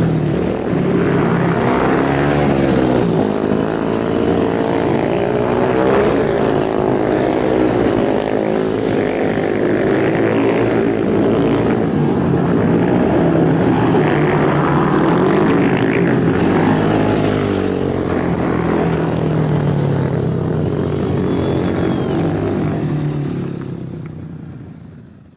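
Several motorcycle engines running together, revving with pitch rising and falling, fading out near the end.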